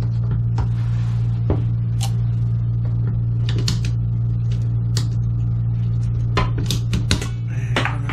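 A steady low hum runs throughout, with scattered light clicks and taps from pipe fittings and tools being handled.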